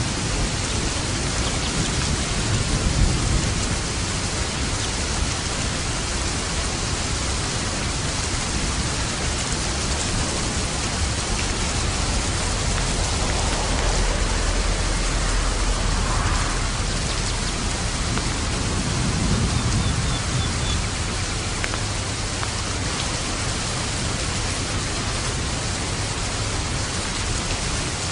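Steady, heavy rain falling. Low rumbles of thunder fade out over the first few seconds and roll in again about halfway through.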